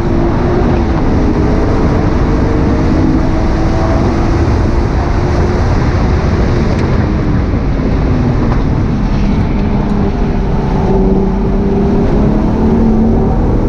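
BMW 135i's single-turbo inline-six driven hard on track, its engine note drifting slowly down and back up in pitch over heavy road and wind noise.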